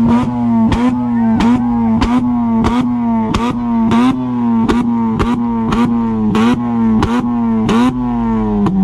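Car engine held at high revs with a sharp crack from the exhaust about every two-thirds of a second; near the end the revs fall away. Very loud, loud enough to hurt the ears close by.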